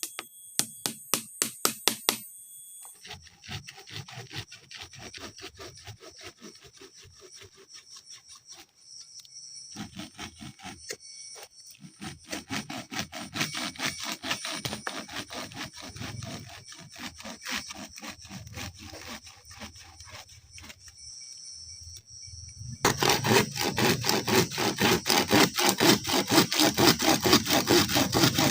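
A saw cutting through wood in quick, even back-and-forth strokes, several a second, in short runs that change abruptly; the last run is the loudest. Steady high-pitched tones hum in the background.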